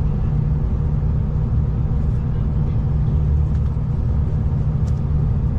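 Steady low rumble of a V/Line diesel train, heard from inside the carriage.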